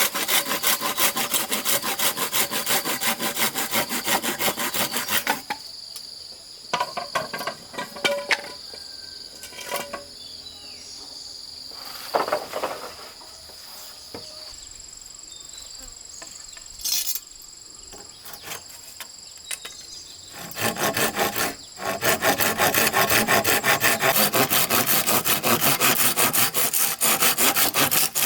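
Sawing wood in two long spells of fast, even back-and-forth strokes, with a few scattered knocks in the quieter stretch between them. A steady high insect drone runs underneath.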